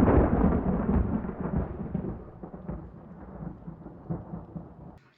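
Food frying in a hot pan: a loud sizzle that fades away, with scattered crackles.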